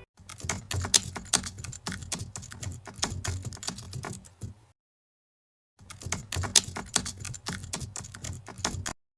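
Rapid, irregular clicking in two stretches, about four and a half seconds and then about three seconds long, cut off cleanly with dead silence between them.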